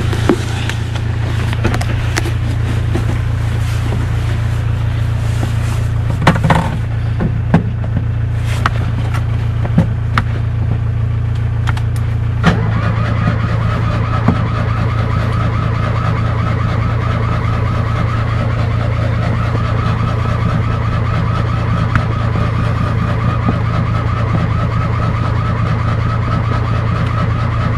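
Fiat 126's air-cooled two-cylinder engine running after a cold start, with scattered sharp clicks in the first half and a change in its note about halfway through. The owner suspects the spark plugs or the ignition coil.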